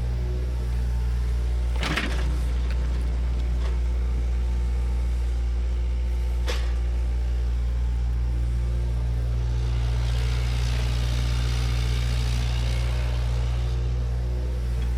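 Heavy diesel earthmover running steadily at work, levelling and digging soil, with two sharp metallic knocks, one about two seconds in and another about six and a half seconds in.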